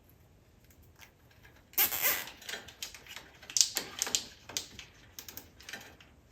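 A zip tie being pulled tight, starting suddenly about two seconds in, followed by a run of irregular sharp plastic clicks and rattles as it is worked and handled.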